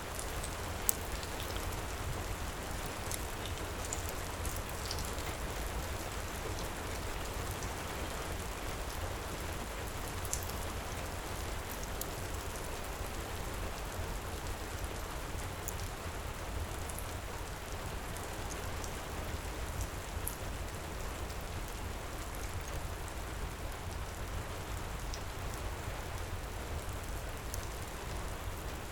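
Steady heavy rain pouring, with scattered sharp crackles and pops from a wood fire in a fireplace, one louder pop about a second in.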